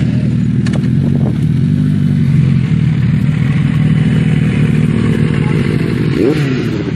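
Motorcycle engine running at a steady cruising speed, with a brief rise and fall in pitch near the end.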